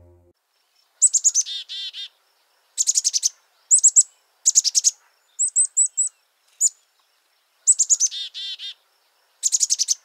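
A songbird singing in short phrases: quick runs of high chirps, several of them followed by a lower, rolling trill, about eight phrases with clean silence between.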